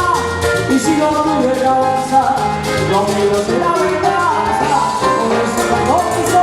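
Live salsa band playing, with percussion keeping a steady beat under melodic lines.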